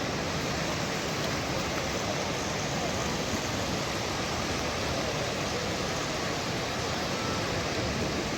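Steady rushing of the Ziz river's floodwater, the wadi running full after rain ended a drought.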